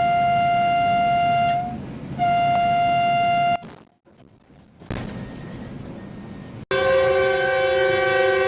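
Train horn blowing a long blast and then a second one over a low rumble. After a sudden cut, a louder multi-note chord horn sounds and holds.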